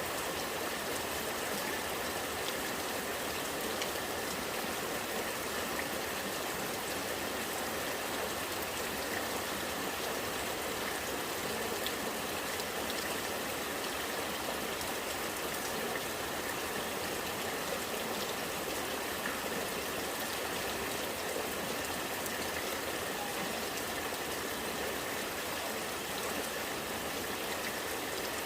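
Rainwater running and trickling steadily, a stream-like rush with faint scattered drips.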